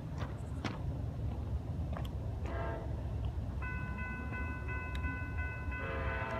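Train running with a steady low rumble and a few sharp clicks, then a locomotive air horn sounds from about three and a half seconds in, a steady chord that grows louder near the end.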